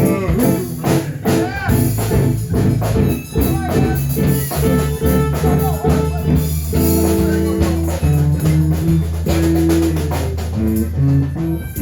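Live blues band playing an instrumental stretch between vocal lines: guitar with bending notes over low bass notes and a drum kit keeping a steady beat.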